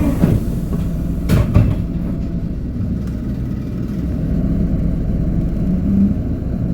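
Cabin sound of a Hino Poncho small bus's four-cylinder diesel engine running, with a steady low drone and road rumble. A couple of sharp knocks come about a second and a half in.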